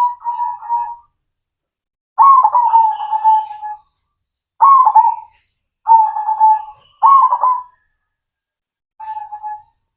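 Zebra dove (perkutut) cooing its trilled song in six short phrases separated by silent gaps, the last phrase quieter than the rest.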